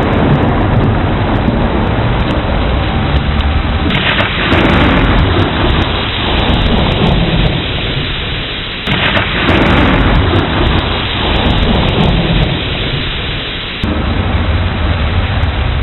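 Thunderstorm: steady rain falling under a continuous low thunder rumble. The sound shifts abruptly about four, nine and fourteen seconds in.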